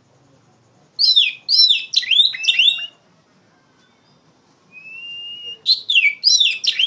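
Oriental magpie-robin (kacer) singing loudly: two bursts of quick, sharply down-slurred whistled notes, with a thin held whistle that rises slightly between them.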